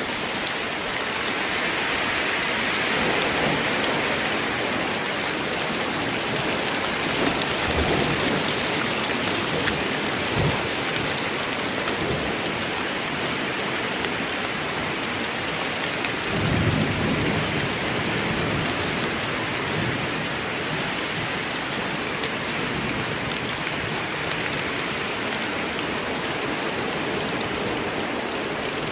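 Steady rain falling in a forest, with a low rumble of thunder a little past halfway through.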